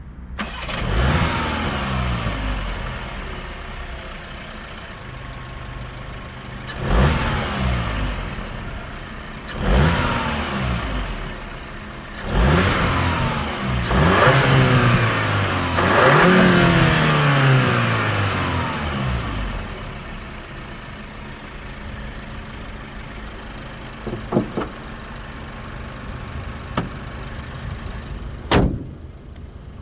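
VW Golf R Variant's turbocharged 2.0-litre four-cylinder engine and stock exhaust revved about six times, each rev rising sharply and then falling away, before settling to idle. A few sharp clicks come near the end.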